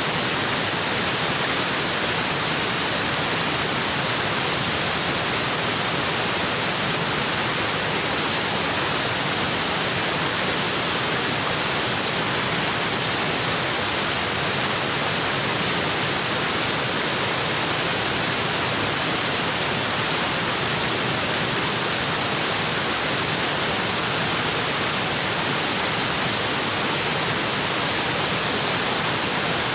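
Tropical waterfall: water pouring onto rocks in a loud, steady, unbroken rush.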